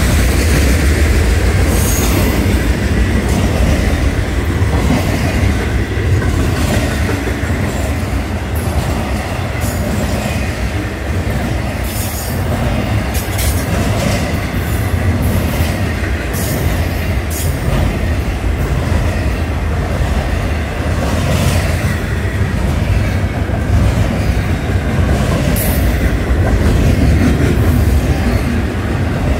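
Florida East Coast freight train's double-stack intermodal cars rolling past: a steady low rumble of steel wheels on rail, with short high wheel squeals and clicks every few seconds.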